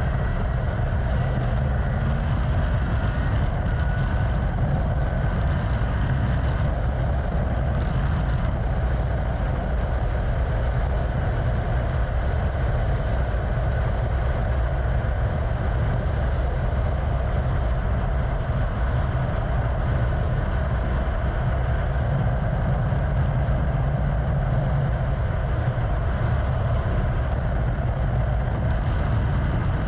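Yamaha FZ6 600cc inline-four motorcycle cruising at a steady speed, its engine running under a heavy, even rumble of wind on the camera's microphone.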